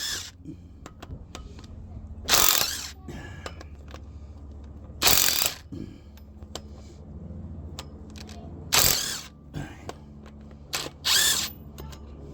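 A tool working on engine flywheel bolts: four short loud bursts about every two to three seconds, with small metallic clicks between them over a low steady hum.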